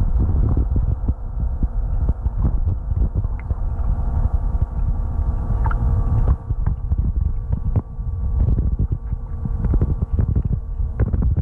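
Outdoor ambience dominated by wind buffeting the microphone, over a steady hum and scattered short clicks.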